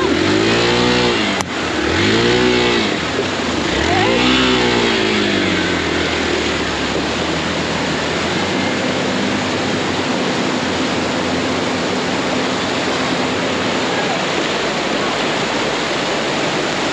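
Motorcycle engine revving up and falling back three times in the first few seconds, then a steady rush of riding noise.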